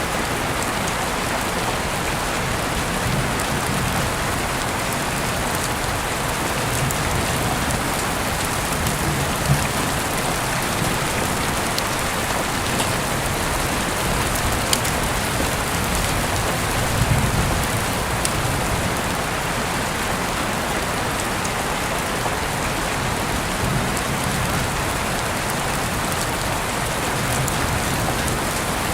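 Steady rain falling, an even dense hiss, with scattered faint ticks of individual drops.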